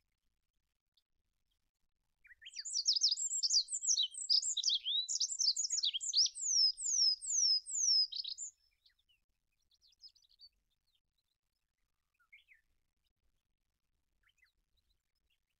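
Olive-backed pipit (Anthus hodgsoni) singing one high, rapid song phrase of about six seconds: a jumble of thin trilled notes that ends in a few clear descending slurs. A few faint short notes follow.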